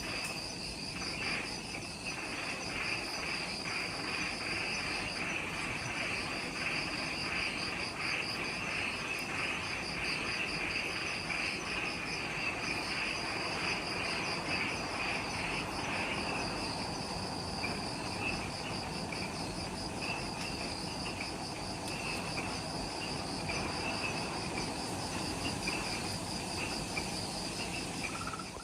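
Chorus of forest insects, several kinds singing at once in steady, overlapping high-pitched trills, one of them a fast pulsing trill.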